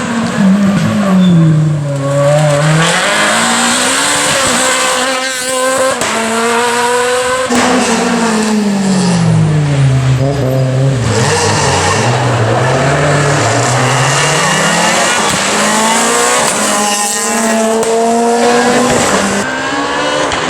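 Renault Clio R3 rally car's four-cylinder engine driven hard, its pitch falling as it slows for corners and climbing again in steps as it accelerates through the gears, over and over.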